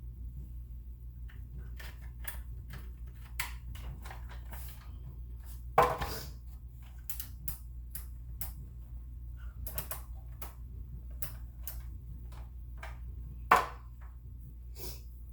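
Irregular clicks and light knocks of kitchen utensils and items being handled on a countertop, with two louder knocks, over a steady low hum.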